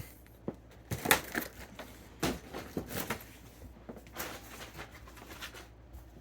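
Fireworks packaging being handled: scattered rustles and a few light knocks as boxes are moved and set down.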